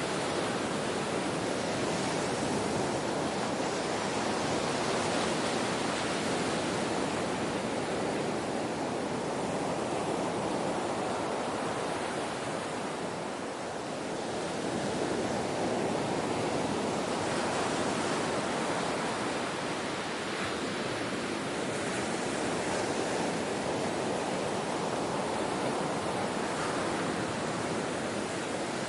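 Ocean waves washing onto a shore in a steady rush of surf, swelling and easing slowly with a brief lull about halfway through.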